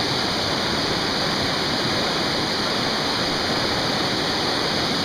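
Creek water rushing steadily over rocks at a waterfall.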